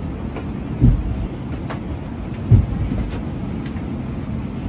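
Steady low rumble inside a moving vehicle's cabin, with two heavier low thumps, about a second in and again about two and a half seconds in, and a few faint clicks.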